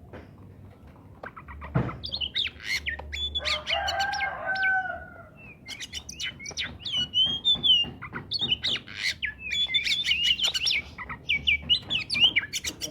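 Oriental magpie-robin (kacer) singing vigorously: a fast, varied run of whistles, chirps and trills that starts about two seconds in. A lower, drawn-out call with a slight fall in pitch sounds around four seconds in.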